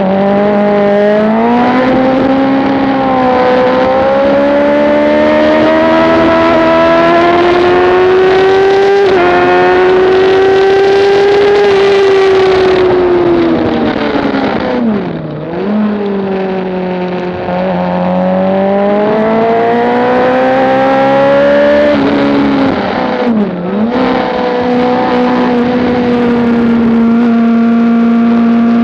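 Motorcycle engine running hard on a racetrack, its pitch climbing under throttle and falling away, with two sharp drops and recoveries about halfway and about two-thirds through as it slows for corners.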